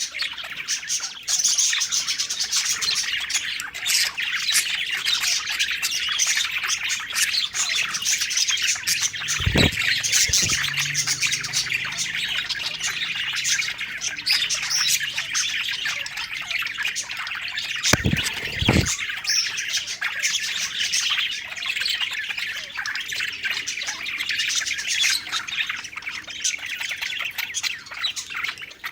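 Several budgerigars chattering and warbling nonstop, a dense mix of chirps and squawks. Brief low thumps break in about ten seconds and eighteen seconds in.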